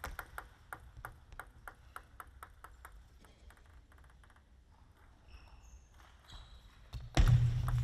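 Table tennis rally: the ball clicks quickly off the paddles and table, several hits a second, with brief sneaker squeaks on the gym floor. About seven seconds in, a sudden loud burst of noise breaks in as the point ends.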